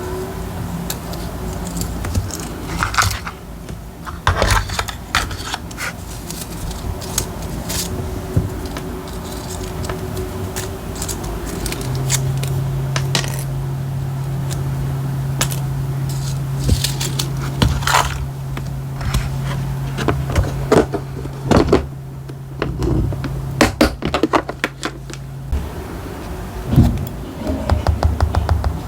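Paper and stationery being handled while decorating a diary: scattered taps, clicks, scrapes and crackles of paper, stickers and small tools. A steady low hum sets in about twelve seconds in and stops suddenly about thirteen seconds later.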